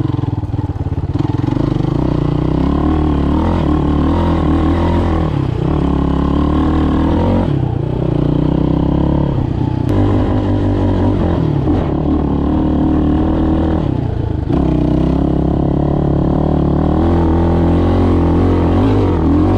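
Motoland Legend motorcycle engine running under load while ridden, revs rising and falling with the throttle and briefly dropping off three times.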